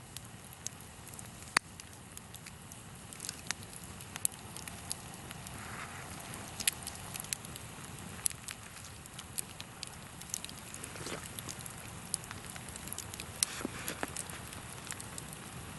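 Large long-log campfire burning, with scattered crackles and sharp pops from the burning wood.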